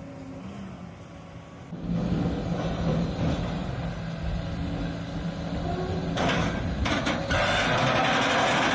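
Heavy machinery running with a steady low engine hum. About six seconds in, loud crunching and grinding noise joins it and grows near the end, as material is broken up.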